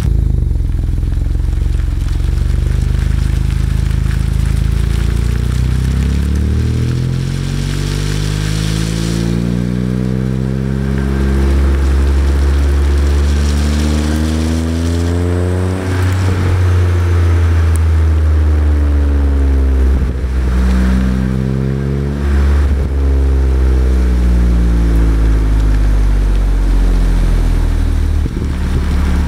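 Exhaust of a BMW E90 335i's turbocharged 3.0-litre straight-six, running an Autobahn Exotics exhaust with high-flow secondary cats and catless downpipes, as the car accelerates. The note climbs steadily in pitch for about ten seconds, then drops sharply about halfway through and climbs again in shorter pulls with two more drops, as at gear changes, before settling. There is some wind noise on the microphone.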